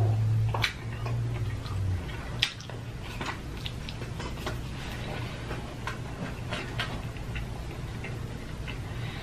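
Close-up eating sounds: wet chewing and lip smacks from a mouthful of cheese-sauce-covered burger, making irregular small clicks throughout. A low steady hum sounds in the first two seconds.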